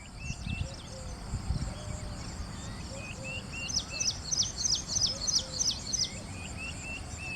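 Several wild birds calling: short chirps repeated throughout, a fast run of high-pitched calls from about four to six seconds in, and softer lower calls, over a low rumble.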